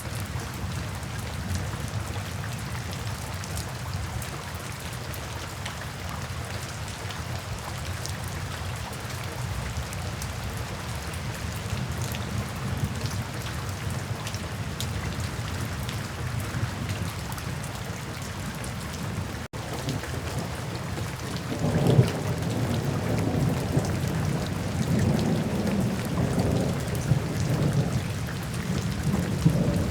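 Steady rain falling, with a low rolling rumble of thunder that breaks in with a sharp peak about two-thirds of the way in and keeps rumbling.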